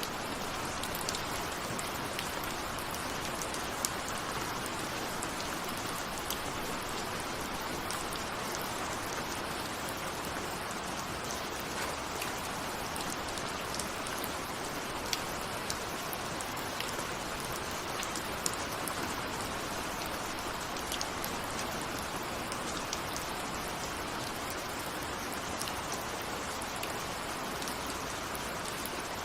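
Steady rain falling, with a constant hiss and many small individual drops ticking on a surface.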